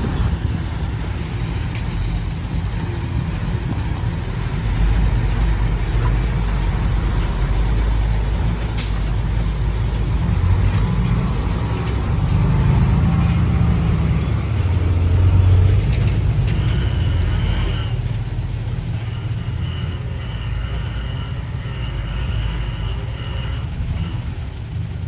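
Heavy truck's diesel engine running, growing louder around the middle and easing off again.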